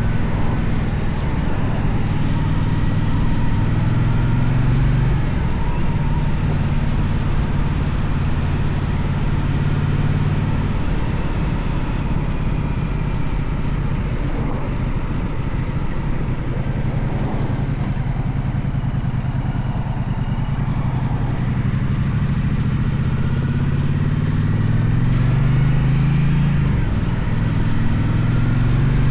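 Gaokin GK1200 motorcycle engine running under way. Its note shifts in steps and rises and falls several times with throttle and gear changes, over a steady low rumble of wind and road noise.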